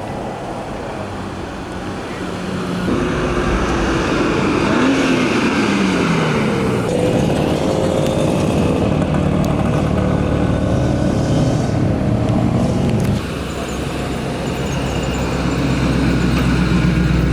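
Car engines driving past at close range. About three seconds in, one engine's pitch rises and then falls as it passes, followed by a steady engine note that cuts off abruptly. Another engine's low rumble builds near the end.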